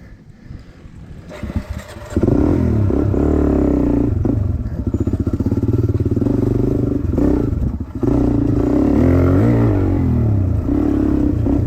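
Dirt bike engine, low for the first two seconds, then running hard under throttle from about two seconds in. Its pitch rises and falls, with short dips twice.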